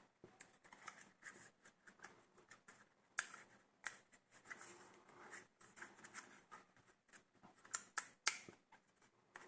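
Plastic clamshell packaging of a laptop RAM kit being squeezed and pried open by hand: irregular crinkling and clicking plastic, with a few sharper snaps.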